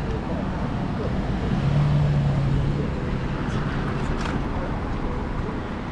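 City street traffic with a steady low rumble, and one vehicle's engine hum standing out from about one and a half to three seconds in.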